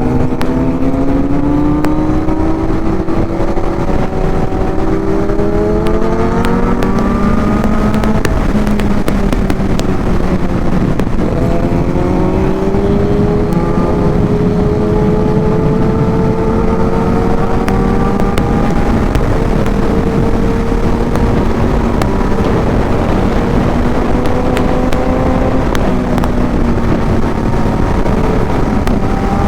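Kawasaki inline-four sport motorcycle engine under way on the road. It pulls up slowly in pitch for several seconds, drops sharply about eleven seconds in, then holds a fairly steady drone with gentle rises.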